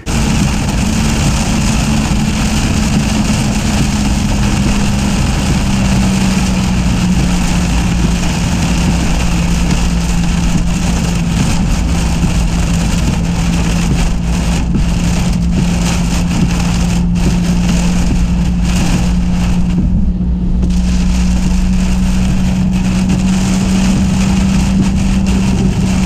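Heavy rain beating on a vehicle's windshield and roof, heard from inside the cabin as a loud, steady wash of noise, with a steady low hum from the vehicle beneath it.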